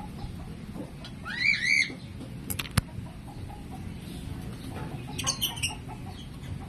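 Lovebirds calling: two short arching chirps about a second and a half in, then two sharp clicks, and a quick cluster of short chirps near the end.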